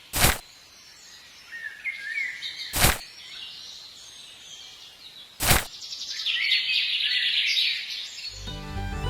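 Birds chirping in the background, broken by three sharp, loud hits about two and a half seconds apart. Music starts near the end.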